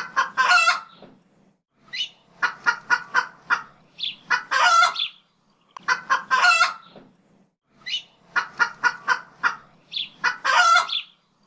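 A chicken cackling, four rounds of quick clucks, each ending in a longer drawn-out squawk.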